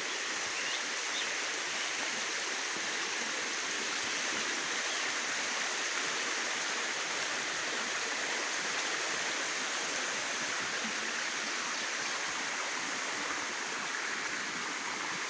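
Small spring-fed mountain stream flowing with a steady, even rush of water. It is running full enough to be a challenge to cross.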